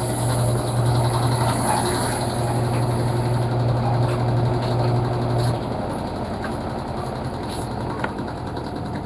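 Panasonic washing machine's motor running with a steady low hum as it turns the load in the wash cycle, then stopping a little over halfway through for the pause between agitation strokes.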